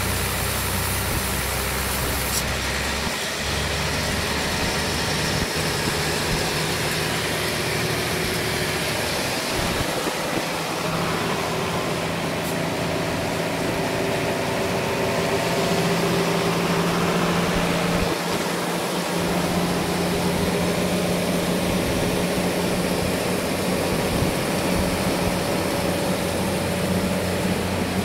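Sawmill engine running steadily, its note shifting a few times.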